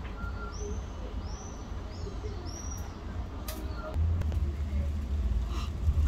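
A few short, high-pitched bird chirps in the first three seconds over a steady low rumble, which grows louder about four seconds in.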